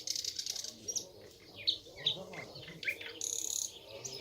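Nightingale singing a varied song: a rapid high trill, then short sharp descending whistles, and a high buzzy trill about three seconds in.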